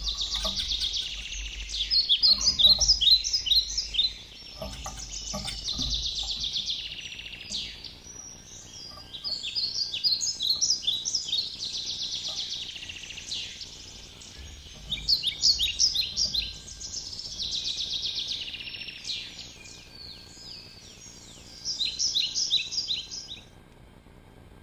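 A songbird singing, over and over, a song made of a fast trill and a run of separate downward-sweeping notes, each song lasting a few seconds.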